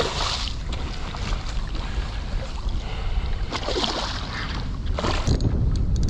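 Wind buffeting the microphone on a kayak, with three short splashes of water: one at the start, one about four seconds in and one about a second later.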